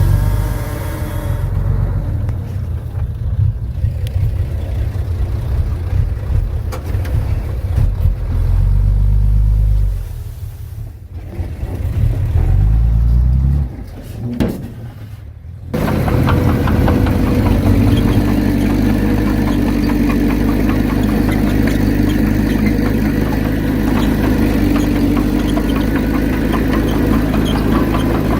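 Heavy diesel earthmoving machinery working: a deep engine rumble that rises and falls unevenly. About halfway through it switches abruptly to a steady, even engine note.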